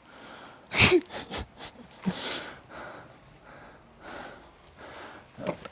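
A person breathing out in several soft, breathy puffs, with a short voiced sound about a second in.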